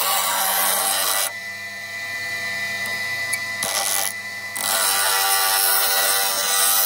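A power grinder running steadily, with steel pressed against it in passes that each add a loud grinding hiss: one at the start that stops after about a second, a short one about halfway, and a long one through the last two seconds.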